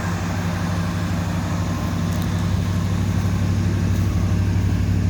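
Car engine idling steadily, a low even hum. It is most likely the 1962 Cadillac's V8.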